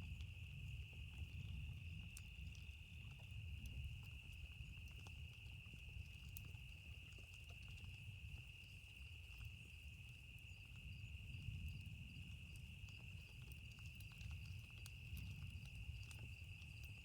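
Faint nature ambience: a steady high-pitched insect chirring, like crickets, over a low continuous rumble of distant thunder, with sparse small crackles from a campfire.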